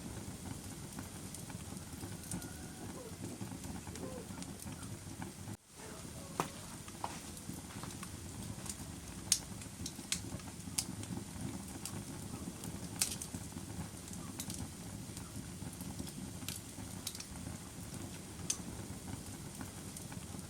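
A fire burning with a steady low rush and scattered sharp crackles and pops. The sound drops out for a moment about five and a half seconds in.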